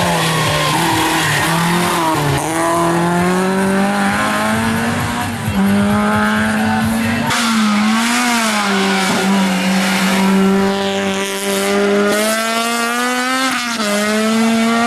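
Race car engine running hard under load, its pitch holding fairly steady but dipping and rising several times as the throttle and gears change.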